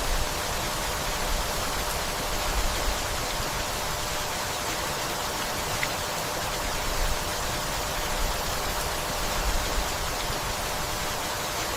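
Steady rainfall, an even hiss with a low rumble that swells briefly now and then.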